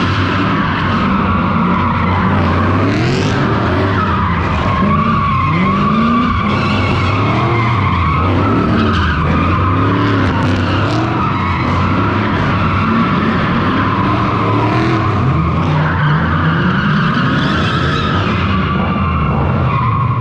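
Drift car sliding with its tyres squealing continuously while its straight-piped Toyota 3UZ-FE V8 revs up and down over and over.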